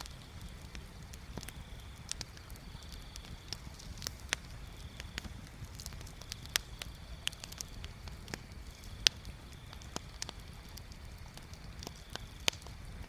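Wood bonfire crackling, with sharp pops at irregular intervals, the loudest about nine seconds in, over a low steady rumble.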